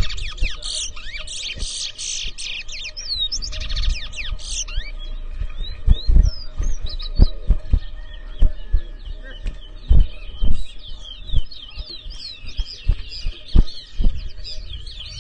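Twa-twa (large-billed seed finch) song: fast runs of high chirps and whistled notes, densest over the first five seconds and then sparser, with scattered dull thumps.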